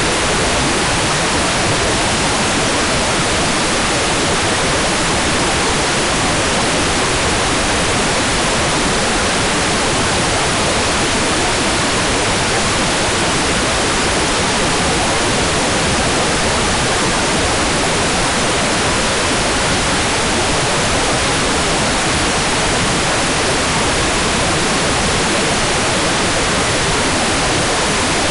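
Hairdryer running steadily as white noise for baby sleep: an even, unchanging rush of air with no breaks.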